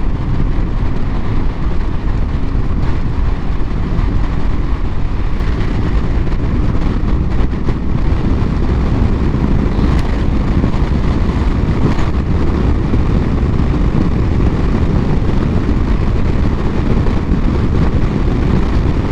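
Steady wind rushing over a GoPro's microphone while riding a BMW 1200 GS motorcycle at road speed, with the bike's running and road noise underneath.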